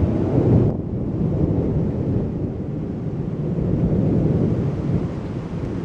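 Rolling thunder, a long low rumble that swells again about four seconds in.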